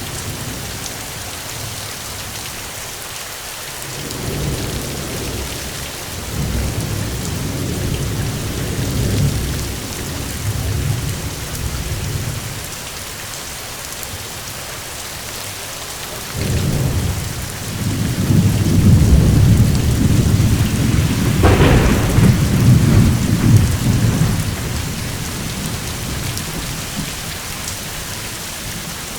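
Steady heavy rain falling, with thunder rolling twice: a low rumble a few seconds in, then a louder, longer one past the middle with a sharper crack in it.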